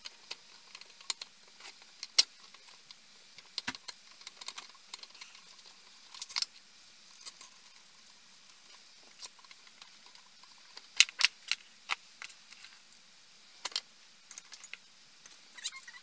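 Scattered light clicks and metallic clinks of small parts and tools being handled, with a cluster of sharper clicks about eleven seconds in.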